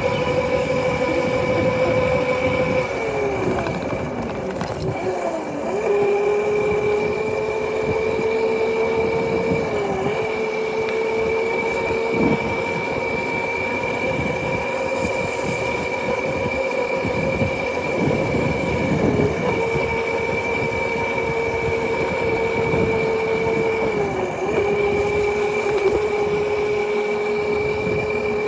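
Motorcycle engine running at a steady cruising speed, its whine holding one pitch over wind and road rumble. The pitch sags a few seconds in and settles slightly lower, then dips briefly a few more times as the throttle is eased.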